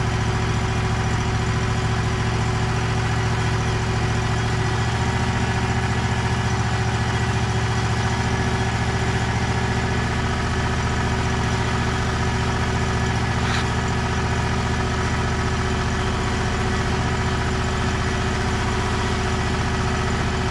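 Wood-Mizer portable sawmill's engine running steadily.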